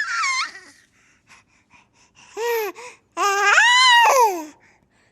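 A baby's high-pitched squeals and laughing vocalizations: a short falling squeal at the start, two brief squeals past the middle, then one longer squeal that rises and falls, with breaths between.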